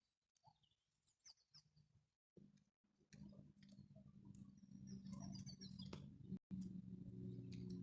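Near silence with faint scattered clicks. From about three seconds in, a low steady hum rises, and there are faint high chirps around the middle.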